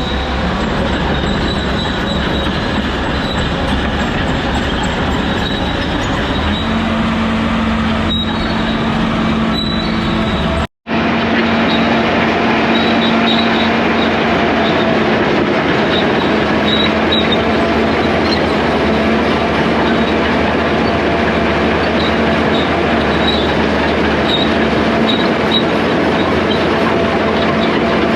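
Old 850 crawler dozer working rock: diesel engine running steadily under load with the steel tracks squealing and clanking. The sound breaks off for an instant about eleven seconds in and carries on much the same.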